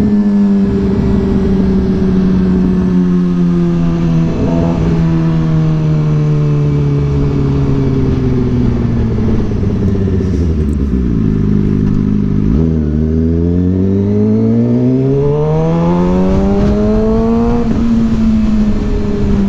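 Suzuki GSX-R 600 inline-four engine heard from on the bike while riding. The revs sink slowly for about ten seconds as the bike rolls off, then climb steadily for about five seconds before easing off near the end. Wind rushes over the microphone throughout.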